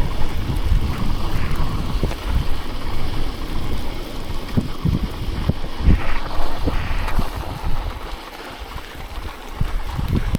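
Wind buffeting a camera microphone that has no windscreen, a low rumble with irregular thumps, as the cyclist rides; it eases briefly near the end.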